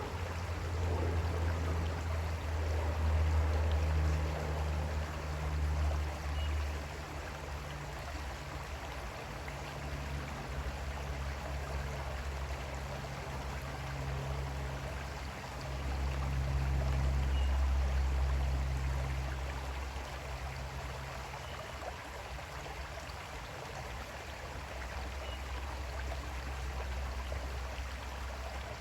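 Creek water flowing steadily, with a low rumble underneath that swells twice, in the first few seconds and again past the middle.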